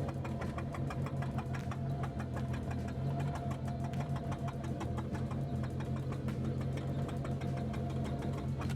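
Toyota AE86 Levin's 4A-GE four-cylinder engine idling with a rapid, regular ticking. This is the abnormal noise that appeared on first start after long storage during restoration; its cause is not yet known.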